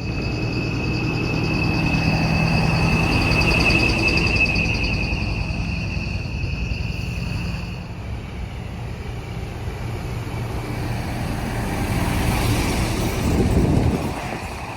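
Heavy diesel trucks and tractor-trailers driving past one after another, their engines getting louder as they pass, first a few seconds in and again near the end. A steady high trill runs through the first half.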